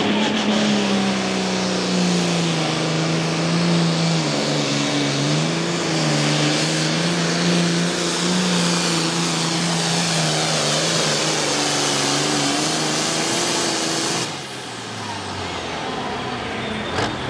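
Super-farm pulling tractor's diesel engine running hard and steady under load. About 14 seconds in it drops off suddenly, and its pitch falls as the engine winds down.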